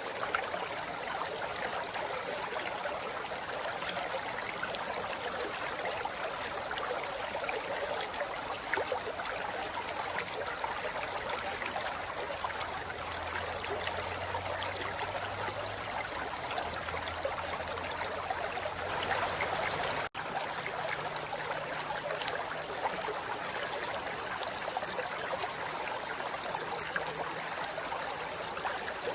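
Forest river flowing over rocks: a steady rush of water. The sound cuts out for an instant about twenty seconds in.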